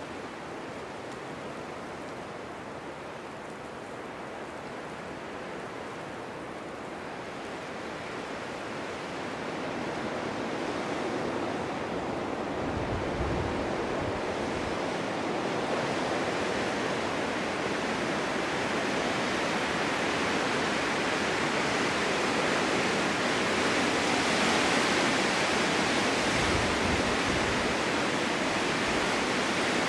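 Snowstorm wind blowing in a steady rushing hiss that builds into stronger, hissier gusts about a third of the way in, with two brief low rumbles of wind buffeting.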